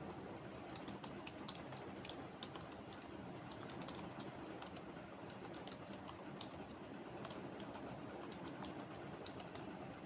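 Computer keyboard typing: irregular runs of keystroke clicks over a steady low background hiss.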